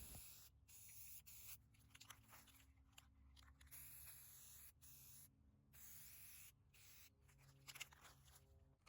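Near silence: a faint hiss that cuts in and out, with a few soft ticks.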